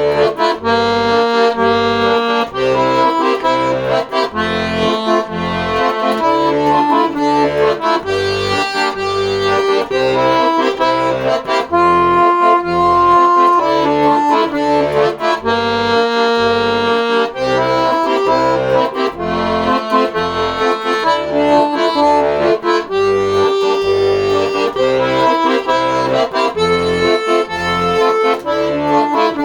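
Accordion playing an instrumental passage: a melody of held notes over a steady, evenly repeating bass-and-chord accompaniment.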